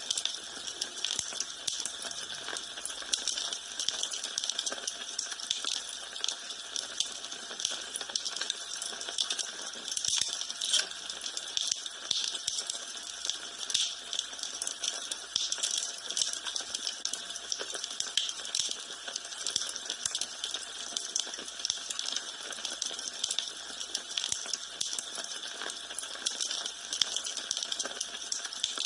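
Wood fire crackling in a fireplace: a steady, dense run of small pops and snaps over a soft hiss.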